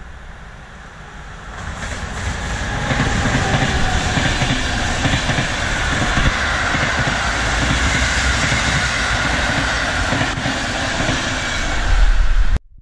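PKP Intercity passenger train passing close by, the rumble and rail noise of its coaches building over the first couple of seconds and then holding steady and loud. It cuts off suddenly just before the end.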